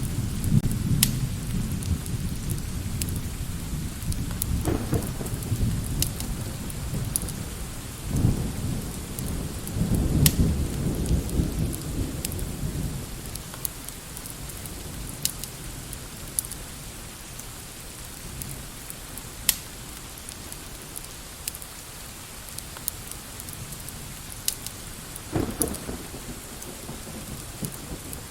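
Steady rain with low rolling thunder that swells twice and fades about halfway through, then returns briefly near the end. Scattered sharp ticks sound throughout.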